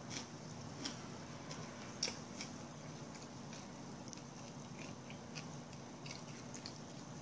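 Close-up chewing and biting of a wheat-toast sandwich with raw purple cabbage, broccoli sprouts and fried egg. The crisp crunches come irregularly, about every half second, and the sharpest is about two seconds in. The crunch comes from the purple cabbage.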